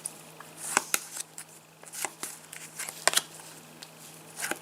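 Trading cards being handled and flicked through, with light rustling and several sharp card snaps: about a second in, around two and three seconds in, and near the end.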